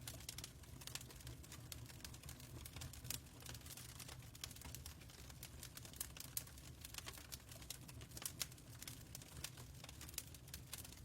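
Fireplace fire crackling faintly: irregular small pops and snaps over a low steady rumble.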